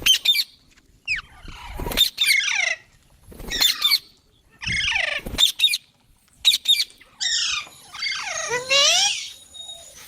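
Baby green parrot chirping repeatedly: about eight short calls, many sweeping down in pitch, each under a second with brief pauses between.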